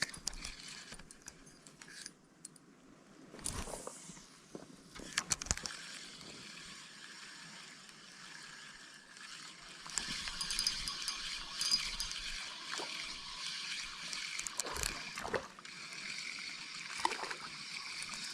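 Running stream water, louder from about halfway through, with a few short knocks and rustles.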